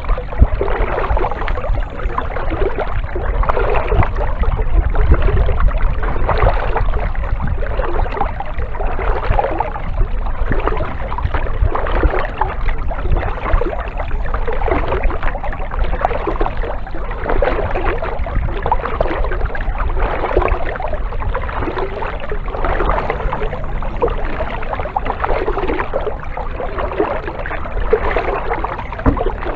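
Kayak paddle strokes dipping and splashing in the water, a rhythmic wash every second or two, over a steady low rumble.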